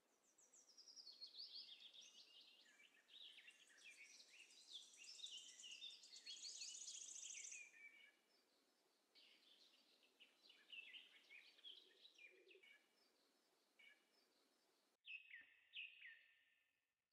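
Faint chorus of many small birds chirping and twittering together. It is busy for the first eight seconds or so, then thins to scattered chirps. After a sudden break about fifteen seconds in, a few more chirps come in.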